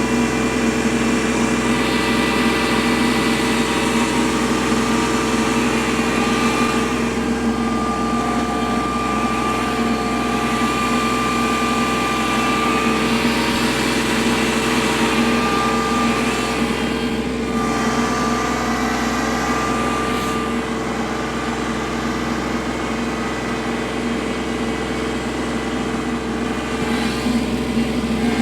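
Kubota L3301 tractor's diesel engine running steadily, with a higher whine that comes and goes.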